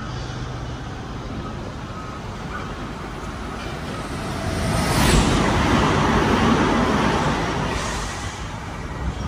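Double-deck electric passenger train passing through the station: the rumble of wheels on rail grows from about four seconds in, is loudest for a couple of seconds, then fades away.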